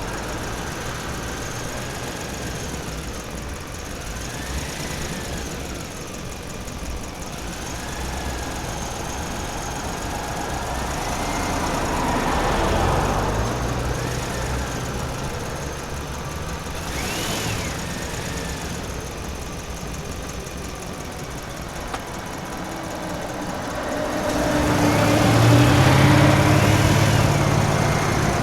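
Vehicle engine running, swelling louder about twelve seconds in and again near the end, with a higher whine that rises and falls again and again.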